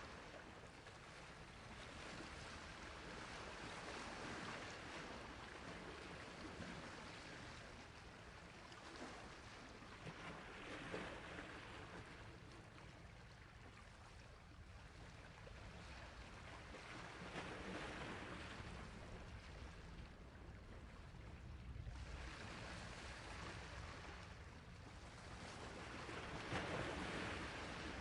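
Sea waves washing onto a shore: a steady rushing surf that swells and ebbs every several seconds, one wave breaking after another.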